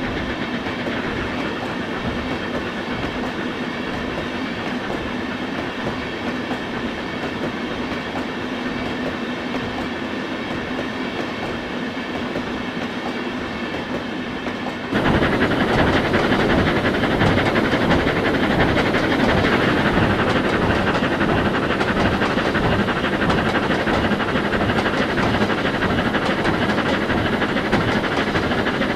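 Train running on rails, a steady rumble with clickety-clack of the wheels. About halfway through the sound jumps abruptly louder and coarser, a cut to another stretch of train noise.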